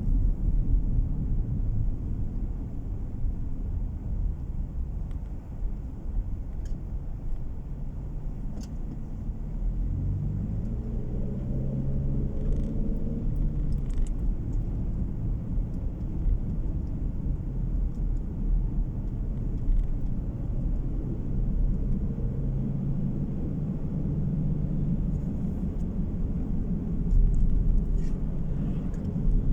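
Car driving along a road, heard from inside: steady low engine and tyre rumble, with the engine note rising about ten seconds in as the car speeds up.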